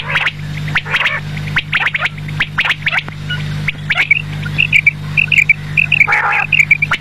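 Quail calling: many short, sharp calls repeated throughout, with a quick string of short high notes in the second half, over a steady low hum.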